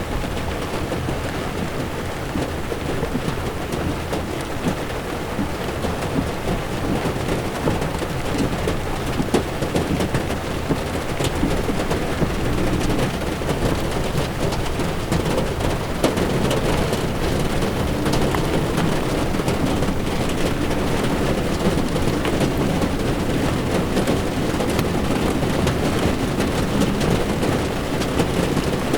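Heavy rain pattering on a car's windshield and body while the car drives on a wet road, with tyre hiss and a steady low road rumble. It gets slightly louder about twelve seconds in.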